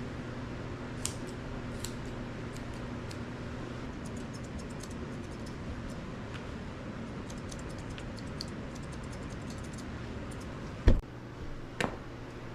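Grooming scissors snipping a dog's hair: a scattered run of small, quick clicks. A low steady hum stops about four seconds in, and a loud thump comes near the end, followed by a smaller one.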